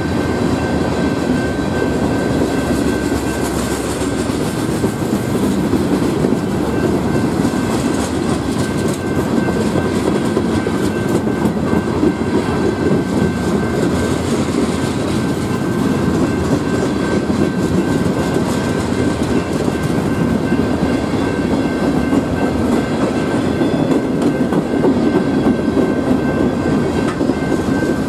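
Freight train of tank cars and covered hoppers rolling past: a steady rumble of steel wheels on rail with clickety-clack over the rail joints, and a steady high tone above it.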